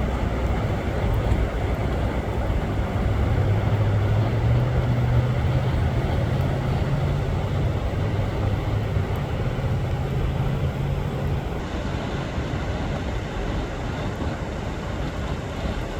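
A vehicle's engine running under a steady rushing noise, with the engine's low hum strongest in the middle; about three quarters of the way through the sound changes and drops slightly.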